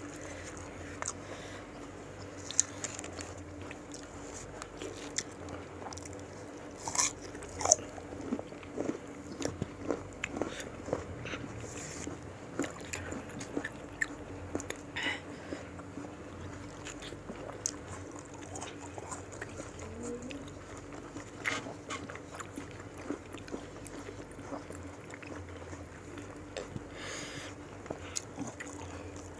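Close-up mukbang eating sounds: irregular crisp bites and crunching on raw fruit pieces (mango, cucumber, jicama) coated in rujak peanut-chili sauce, with wet chewing in between. A faint steady hum runs underneath.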